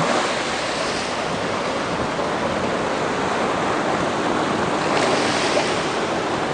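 Sea surf washing onto a shore: a steady hiss of waves that swells about a second in and again near the end.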